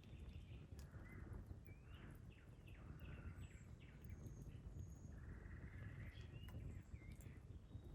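Faint outdoor ambience with birds calling and chirping several times, including a quick run of short falling notes about two to three seconds in, over a low steady rumble. A few faint crackles, like a campfire, are scattered through it.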